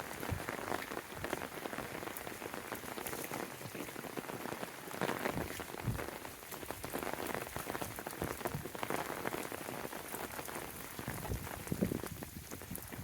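Steady rain falling, with many irregular individual drop hits pattering over the continuous hiss.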